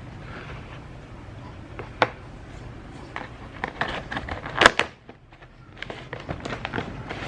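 Household handling noises: scattered clicks and knocks over a steady low room hum, the loudest knock about four and a half seconds in.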